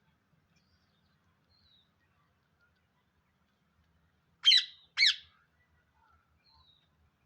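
A Psittacula parakeet gives two short loud calls about half a second apart, with faint soft chirps before and after.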